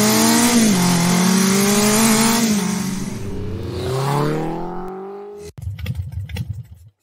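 Motorcycle engine revving, its pitch rising and dipping with the throttle, then fading away after about four seconds. Scattered softer knocks follow near the end.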